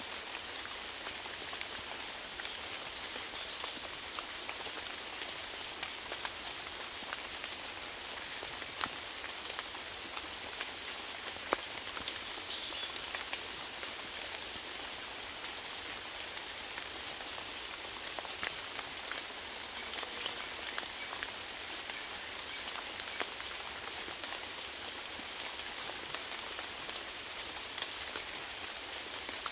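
Steady rain falling, with many individual drops pattering and ticking sharply on a hard surface.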